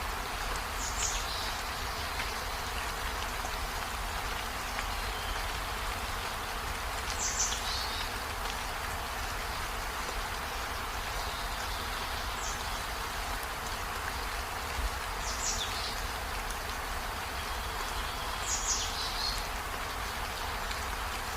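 Steady rain falling, an even hiss with a low rumble underneath. About five brief high-pitched sounds sweep downward over it, a few seconds apart.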